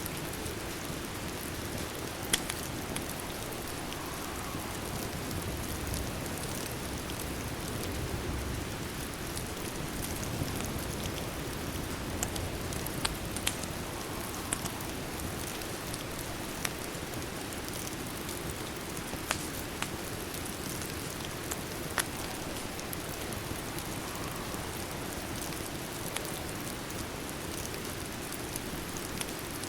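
Steady rain falling against a window, with scattered sharp crackles from a wood fire every second or two.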